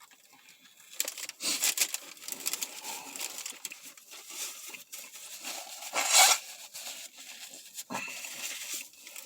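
Paper sandwich wrapper crinkling and rustling as it is handled, in irregular bursts.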